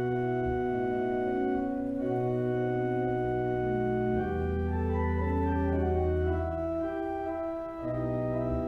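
Organ playing slow, held chords over deep bass notes, the harmony changing every second or two.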